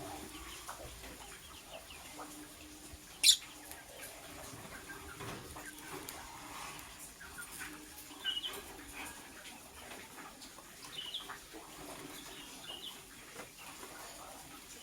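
Lovebird chirping: one sharp, loud, high-pitched chirp about three seconds in, then a few shorter high chirps spread through the rest, over soft scattered clicks and rustling.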